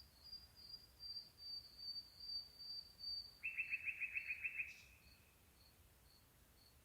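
Night insects: a cricket chirping faintly about twice a second, with a high, thin trill for the first three seconds. About three and a half seconds in, a louder, lower rapid trill of quick notes lasts about a second and fades.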